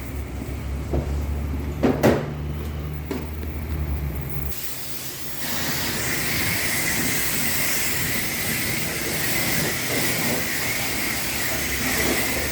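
Self-serve car wash spray wand: a low hum with a few knocks, then about five seconds in a steady hiss of spray starts up as the wand is triggered to apply soap.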